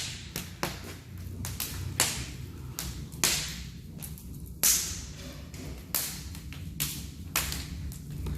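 Wood fire burning in an open brick fireplace firebox, crackling with irregular sharp cracks and pops every half second or so.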